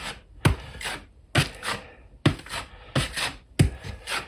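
Steel drywall taping knife scraping and spreading joint compound in a run of short strokes, a little under two a second, working the lumps out of the mud for a thin final coat.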